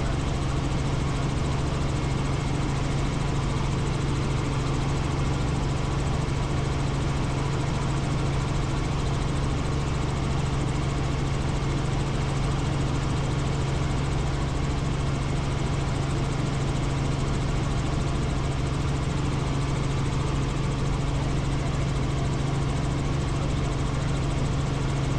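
Helicopter in flight: steady turbine and rotor noise with a strong low hum, unchanging throughout.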